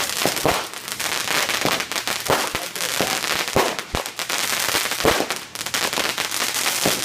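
Fireworks and firecrackers going off: a dense, rapid crackle with louder sharp pops every second or so.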